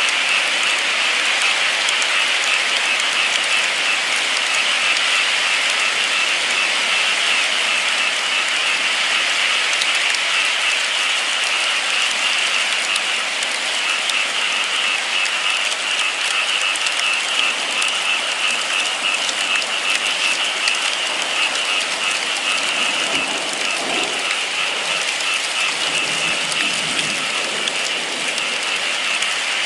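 Steady, continuous rain falling in a dense, even patter.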